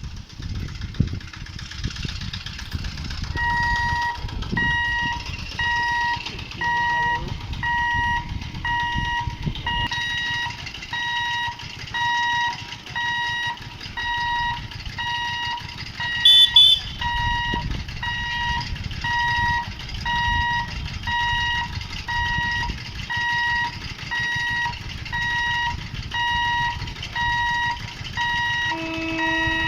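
Railway level-crossing warning alarm beeping: even electronic beeps, a bit more than one a second, starting a few seconds in, over a low rumble of engines. A brief, loud, high-pitched sound cuts in about halfway through.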